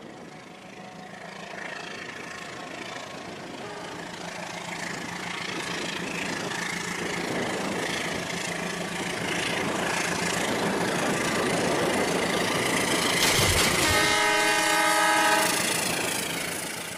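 A train running and drawing closer, growing steadily louder, with a horn sounding for about a second and a half near the end before the sound fades away.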